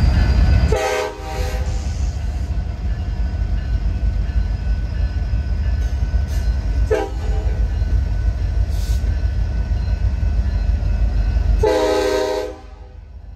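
Train rolling through a grade crossing with a steady low rumble of wheels on rail. The locomotive's air horn sounds three times: short blasts about a second in and about seven seconds in, and a longer one near the end. After the last one the rumble drops away sharply.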